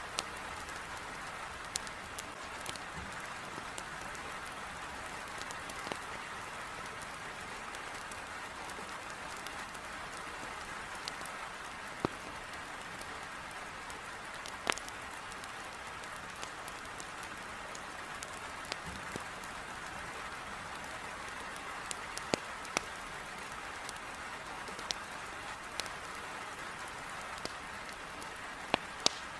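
Heavy rain falling in a steady hiss against a window, with irregular sharp pops and snaps of a wood fire crackling in a fireplace.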